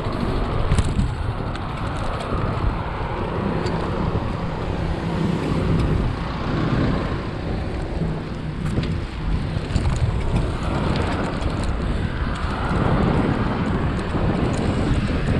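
Steady road traffic noise with a low rumble, heard from a moving bicycle, with a faint engine hum passing in the middle.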